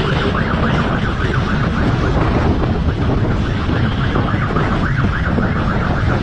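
Police siren in a fast warble, its pitch sweeping up and down several times a second, over loud wind and engine noise.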